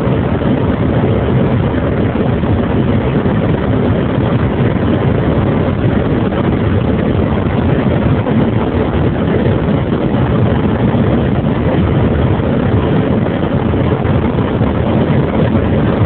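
Land Rover Discovery 3's 2.7-litre TDV6 turbodiesel V6 pulling at high speed under acceleration: a steady, loud, low drone of engine mixed with road and wind noise.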